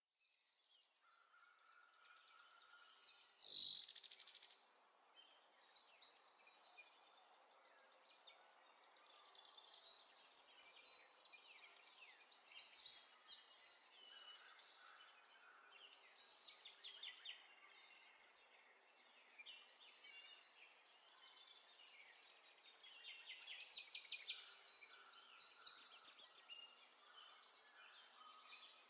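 Songbirds chirping and singing in short, repeated phrases, with one louder call about three and a half seconds in.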